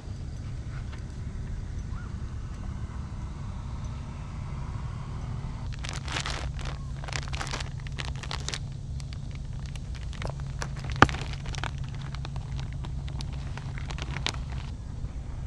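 A steady low rumble, with a run of rustling and clicking handling noises in the middle and one sharp click about eleven seconds in.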